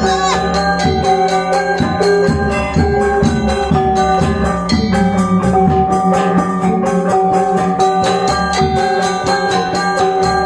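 Balinese gong gamelan playing: bronze metallophones struck in a fast, dense stream of ringing notes over a sustained low tone.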